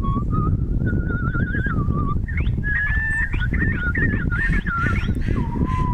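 A person whistling a warbling tune to call birds, with quick rising chirps in the middle, over a steady low rumble.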